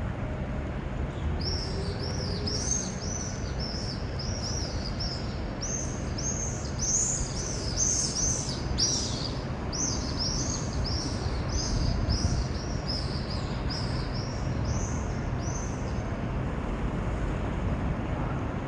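Swallows calling: a run of high, arched chirps, about two a second, starting about a second and a half in and stopping a few seconds before the end, over a steady low rumble.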